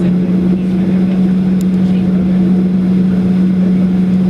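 Cabin drone of a Boeing 737-800's CFM56-7B jet engines, a loud, steady hum over a low rumble.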